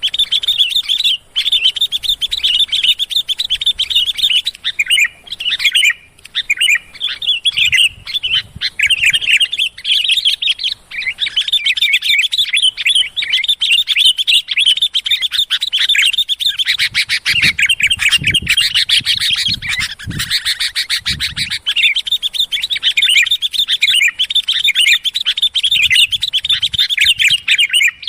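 Sooty-headed bulbuls (kutilang) in a busy, noisy bout of rapid chirps and calls with almost no pause, the excited calling used as a lure to draw other bulbuls.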